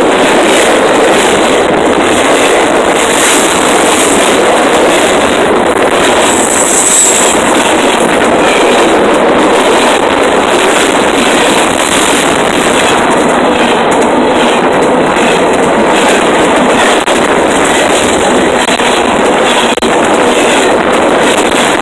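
A train rolling directly over the microphone: loud, unbroken rumble and rattle of rail cars passing overhead, with scattered clicks from the wheels.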